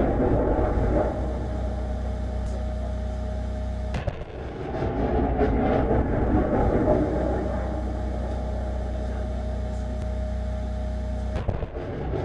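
Diesel engine of an M142 HIMARS launcher truck running steadily, a low drone with a faint steady whine above it. The sound breaks off abruptly and picks up again twice, about four seconds in and near the end.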